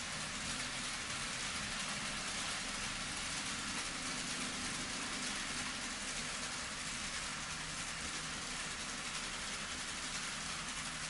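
N scale model trains running on track: a steady hissing rattle of wheels on rail with a faint hum of motors.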